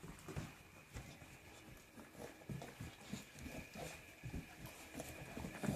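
Young dogs playing: a run of soft, irregular thumps and scuffles from paws and bodies tussling.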